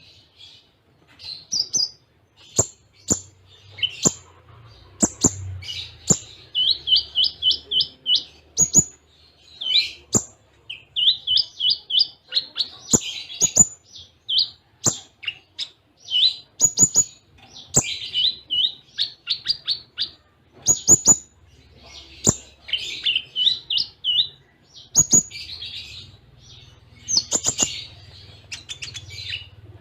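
A Kolibri Ninja (konin) sunbird singing in a rapid, busy stream of high chirps, quick trills of repeated notes and sharp loud ticks, with only short gaps. The song is laced with mimicked cililin phrases.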